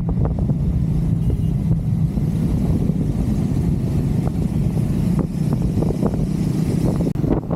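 Triumph Scrambler 400 X's single-cylinder engine running steadily while riding.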